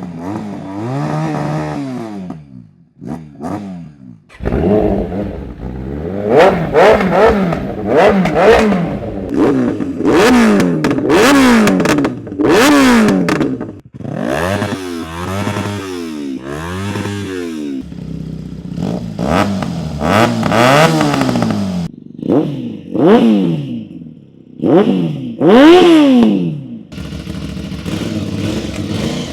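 Heavy motorcycle engines revved by turns in repeated throttle blips, the engine pitch sweeping up and falling back with each blip. The sound changes abruptly several times as one bike gives way to the next.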